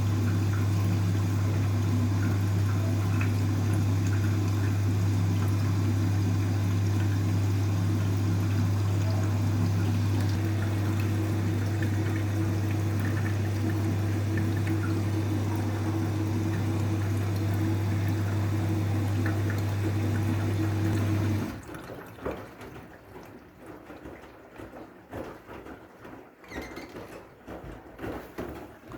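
Washing machine moving water: a steady hum with rushing water over it, which cuts off abruptly about 21 seconds in and leaves only faint, irregular knocks.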